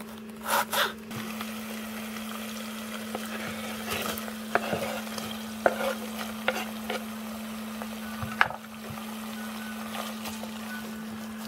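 A knife chopping twice on a wooden cutting board, then diced bacon, carrot and onion sizzling in an electric multicooker's bowl on its frying setting, with a steady low hum under the hiss. Several sharp knocks and scrapes come as the onion is scraped in and stirred with a silicone spatula.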